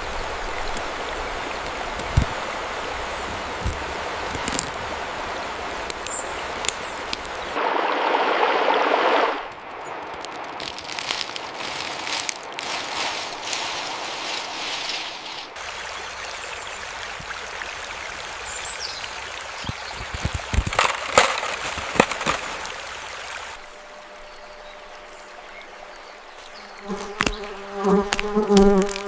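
Outdoor nature ambience of steady hiss with scattered ticks, changing abruptly several times. A flying insect buzzes close by near the end as a wavering hum.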